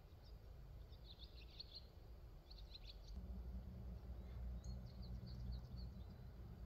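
Quiet outdoor ambience: songbirds chirping in several short bursts of high notes over a steady low rumble.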